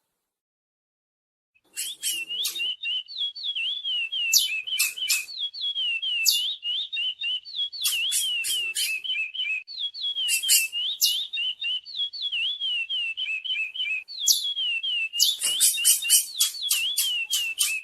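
Curió (chestnut-bellied seed-finch) singing: a fast run of whistled notes sweeping up and down, mixed with sharp high chips, in long phrases with a couple of brief breaks. The song starts about two seconds in.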